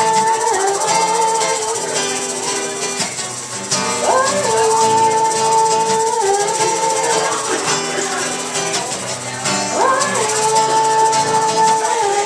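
Live band playing an instrumental passage between sung verses: a melody of long held notes, each sliding up into pitch, coming round about every five and a half seconds over steady accompaniment.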